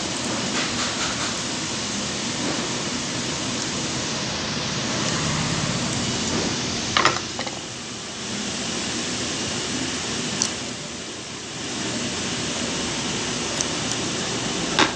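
Steady background hiss, like a fan or air conditioner, with a few short clicks of small metal sewing-machine parts and tools being handled while the feed dog is fitted.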